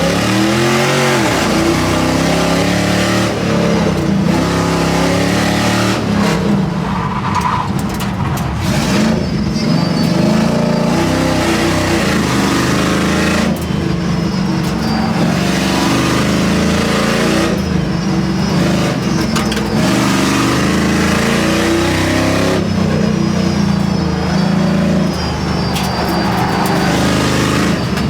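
A pickup truck's engine running hard through an autocross run, its pitch climbing and dropping again and again as the driver accelerates and lifts. The tires squeal at times.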